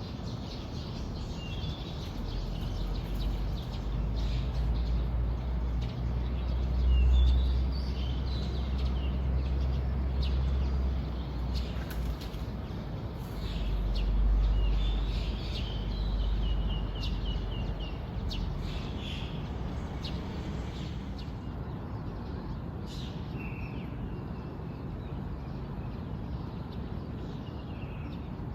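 Wild birds chirping and trilling in short, scattered calls, several overlapping. A low rumble swells twice underneath, about a quarter of the way in and again around halfway.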